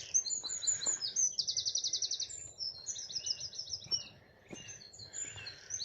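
Songbird singing a varied phrase of high whistles that includes a fast run of about ten identical repeated notes, then a second varied phrase. It is typical of a common nightingale, which the listener thinks he has just heard.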